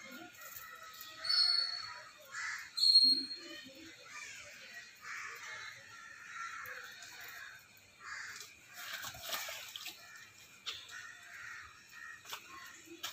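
Birds calling outdoors, with two loud, short, high calls about one and three seconds in, over a fainter scattered background of calls.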